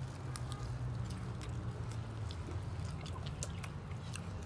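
Close-up chewing of roast chicken and rice, heard as scattered soft mouth clicks, over a steady low hum.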